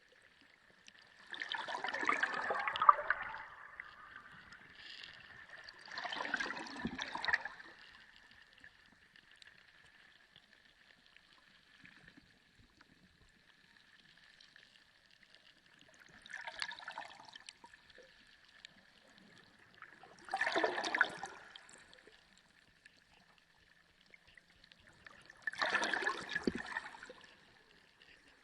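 Underwater ocean ambience: five swells of rushing, bubbling water, each lasting a second or two and fading back out, separated by quieter gaps. A faint steady high tone runs underneath.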